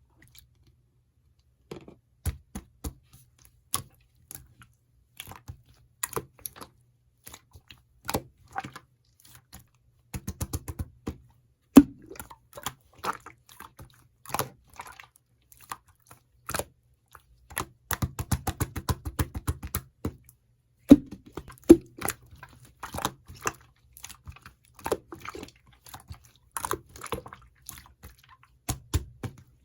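Pink clear slime being squeezed and pressed by hand, giving irregular wet clicks and pops, with two longer runs of rapid crackling pops.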